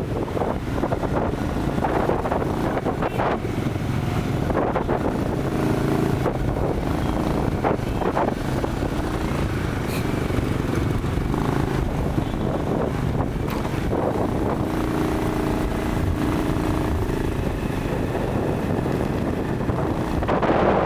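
Motorcycle running at speed on a ride, with wind buffeting the microphone. A pitched engine note stands out now and then over the steady rumble.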